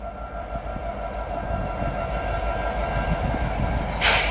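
CN diesel locomotives rolling past, a low rumble with a steady engine hum that grows louder. Near the end a short burst of hiss as the scanner radio keys up.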